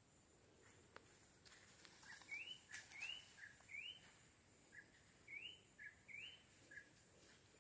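A bird calling a quick series of short rising whistled notes, about eight, some followed by a brief lower note, over a faint steady high-pitched hum.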